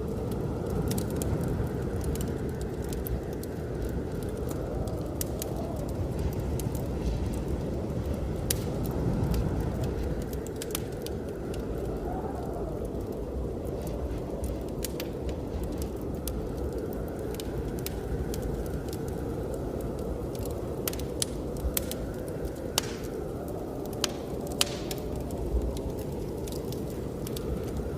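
Wood fire crackling, with sharp pops that come thicker a little past the middle, over a steady low rush of blizzard wind whose howl slowly swells and fades every few seconds.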